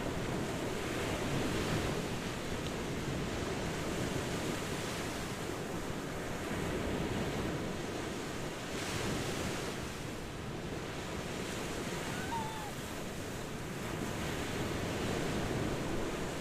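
Ocean surf washing continuously, swelling as waves break every few seconds.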